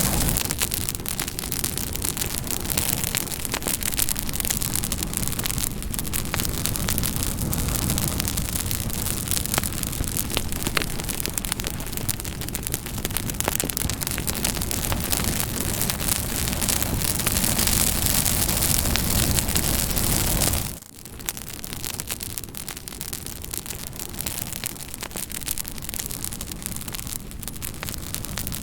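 Campfire crackling: a steady rush of burning wood, dense with small pops and snaps. About two-thirds of the way through it drops sharply for an instant, then carries on a little quieter.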